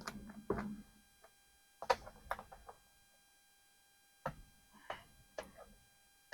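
Scattered clicks and knocks of hand tools and hard plastic parts being handled, in small clusters with quiet gaps between.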